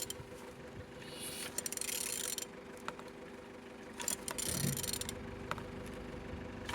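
Mercedes-Benz OM611 four-cylinder diesel engine being turned over by hand with a wrench, giving ratcheting clicks and two spells of scraping mechanical noise; the engine turns freely.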